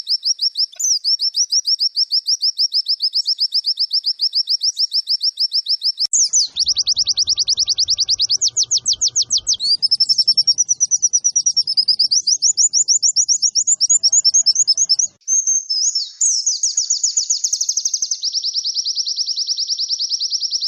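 White-eye (pleci) song from a tutor recording: a long, rapid run of high chirping and trilling notes with no pause. The pattern changes several times, and there is a brief break about fifteen seconds in.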